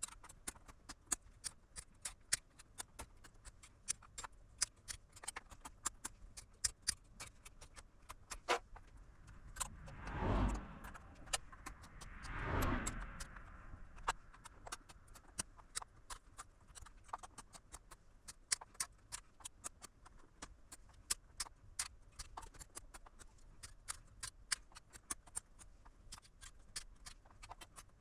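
Irregular light clicks and taps, several a second, with two brief rustling or scraping noises about ten and twelve and a half seconds in.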